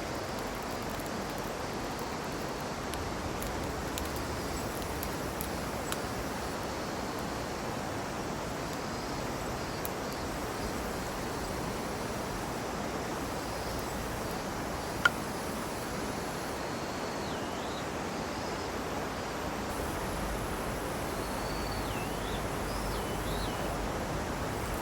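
Steady rushing outdoor noise with a few light clicks and one sharp pop about fifteen seconds in, plus faint bird chirps in the later part.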